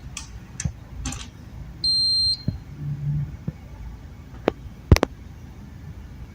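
A single electronic beep, one steady high tone about half a second long, sounds about two seconds in, among scattered sharp clicks and knocks.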